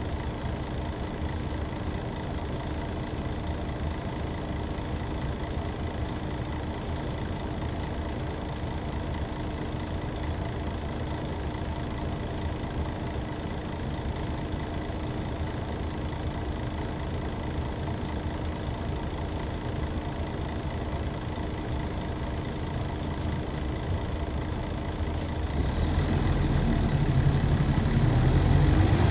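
Hyundai D6CC Powertec 380 inline-six diesel of a Hyundai Universe Comfort coach idling steadily. After a short click about 25 seconds in, the engine note deepens and grows louder as it comes under load near the end.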